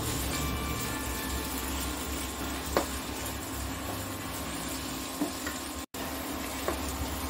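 Sliced onions and green chillies sizzling in oil in a nonstick kadai while a wooden spatula stirs them, with three sharp knocks of the spatula on the pan. The sound drops out for a moment a little before the end.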